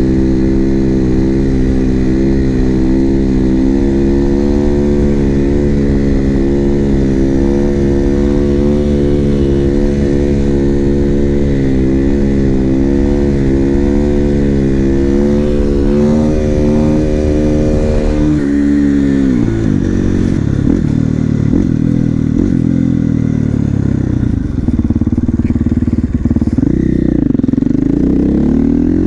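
KTM 450 supermoto's single-cylinder four-stroke engine running at steady revs under light throttle. About two-thirds of the way through the revs drop sharply, then rise and fall unevenly, climbing again near the end.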